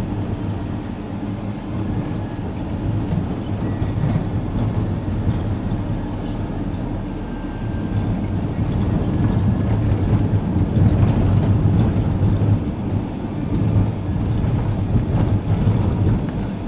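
Steady low rumble of a vehicle driving on a road: engine and tyre noise, with some wind on the microphone.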